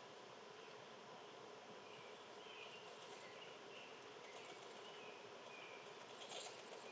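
Faint outdoor ambience with a few short, soft bird chirps from about two seconds in, and a brief scratchy rustle near the end.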